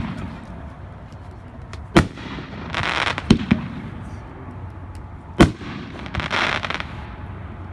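A 500-gram consumer fireworks cake firing: five sharp bangs spaced one to two seconds apart, two of them close together. Between them come short spells of hissing crackle.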